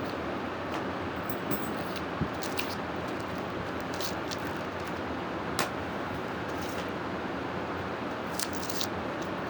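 Steady wind noise, an even rushing hiss, with scattered faint clicks and crackles.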